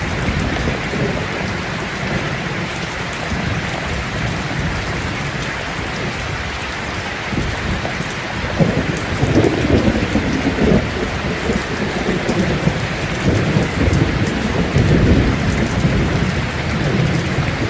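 Steady rain falling, with low rolls of thunder rumbling in from about halfway through.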